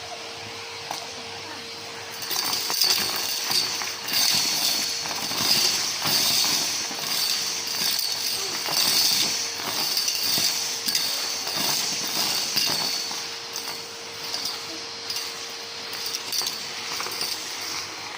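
Numatic James vacuum cleaner running while it sucks up dry mess: from about two seconds in, a dense rattling and clinking of debris going up the hose, which thins out near the end.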